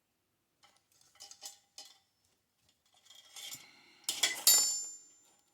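Light metal clicks and handling of small metal parts, then a sharp metal clink about four seconds in that rings briefly.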